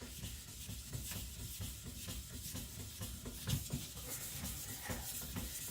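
Knife blade of very hard AEB-L steel, at about HRC 66, ground on a 400-grit Naniwa Professional whetstone: continuous gritty scraping strokes. The stone is cutting slowly because the steel is so hard.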